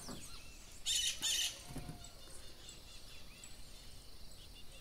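Birds chirping in the background outdoors. About a second in come two brief, loud, scratchy noises.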